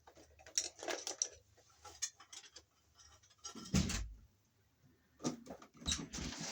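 Wire cutters snipping the ends of two twisted copper wires to even them for a wire nut, heard as a scatter of small sharp clicks and tool handling, with one duller knock about four seconds in.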